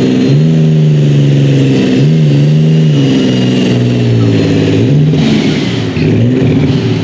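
Super Farm pulling tractor's turbocharged diesel engine running hard at high revs, with its pitch dipping and recovering several times. A faint high whine runs over it.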